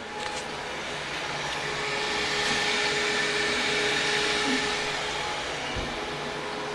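A 1985 Crane Radcliffe toilet flushing: a steady rush of water with faint steady whistling tones, growing louder over the first few seconds and easing slightly near the end.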